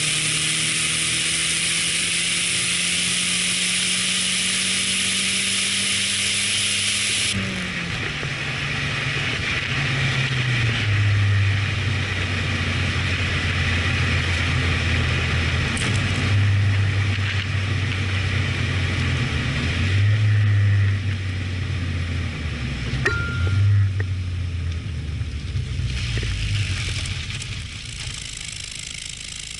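1985 Nissan Silvia S12's turbocharged CA18ET four-cylinder engine heard through its exhaust, running steadily with a hiss for about seven seconds. Then it is revved up and let fall back several times, and settles lower near the end.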